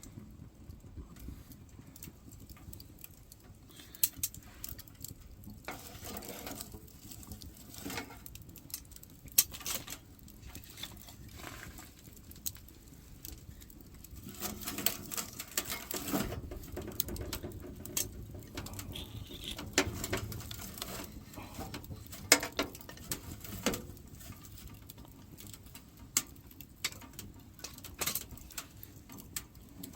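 Burning firewood crackling and popping irregularly in a three-sided fireplace-style wood stove, with a few louder knocks.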